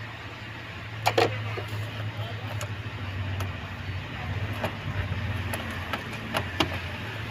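Several sharp clicks and knocks of hands and tools working hose and clip fittings in a car's engine bay, two close together about a second in and two more near the end, over a steady low hum.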